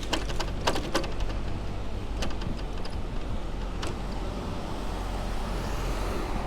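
Street traffic heard from a moving bicycle: a steady low rumble with a few sharp clicks in the first few seconds, then a hiss that swells in the second half as a car goes by on the wet road.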